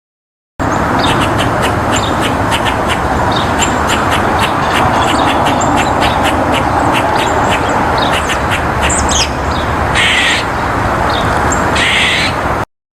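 A crowd of birds calling at once, a dense din of many overlapping short calls. It starts abruptly about half a second in and cuts off suddenly near the end.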